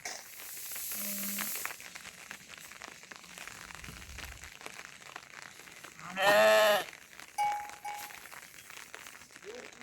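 A single loud, wavering bleat from livestock, about six seconds in, lasting under a second. Before it comes a short hiss in the first second and a half, over a quiet background.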